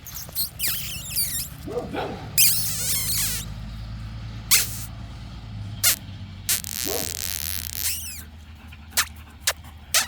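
A dog making short whining and yipping sounds, mixed with scattered clicks and rustling over a steady low rumble.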